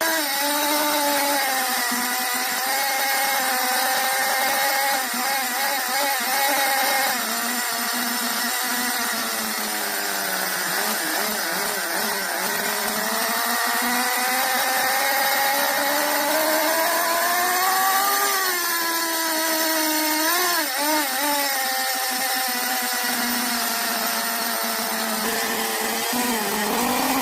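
Mini nitro model engine running at high speed, its pitch drifting up and down, climbing to its highest a little past the middle and dipping near the end.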